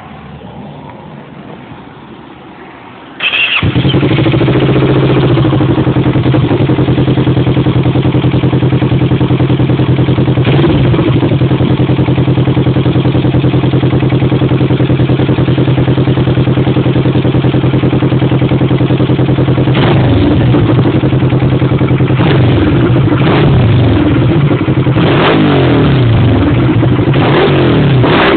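Kawasaki ER-6's 650 cc parallel-twin engine through a GPR Thunder aftermarket exhaust with its baffle fitted. It starts about three seconds in and then idles steadily, with a short throttle blip about ten seconds in and several more blips toward the end.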